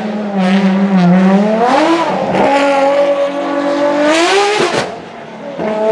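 Ferrari FXX-K Evo's V12 engine revving hard as the car accelerates away. The pitch climbs and drops back at each gear change, about two seconds in and again just before five seconds in. It goes briefly quieter near the end, then climbs once more.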